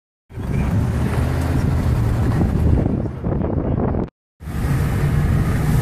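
Steady low rumble of a moving vehicle with wind noise on the microphone, broken by a short cut of silence about four seconds in.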